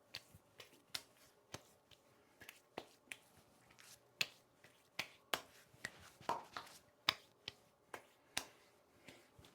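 Hands patting aftershave splash onto a freshly shaved face: a run of light, sharp slaps at uneven intervals, a couple a second.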